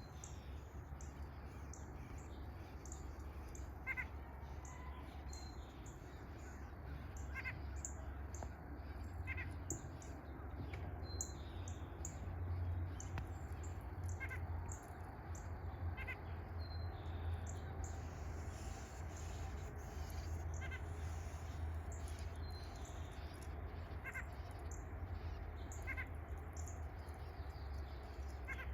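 A bird calling: short pitched calls repeated every one to two seconds, with many quick high chirps throughout, over a low steady hum.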